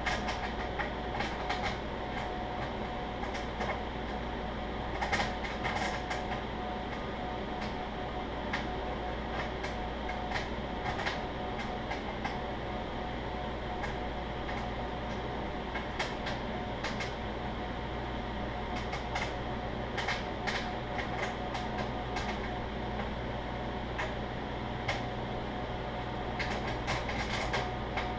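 Microwave oven running with a steady hum, with popcorn kernels on the cob popping irregularly inside it, a few sharp pops every second or so.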